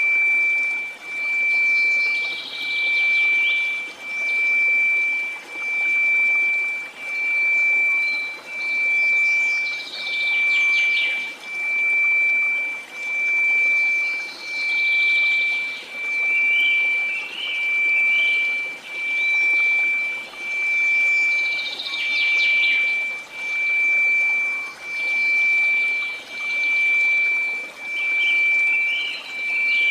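A steady pure tone of 2334 Hz, swelling and fading in volume about once a second, over a soft hiss. Faint chirping and trickling sounds come and go behind it.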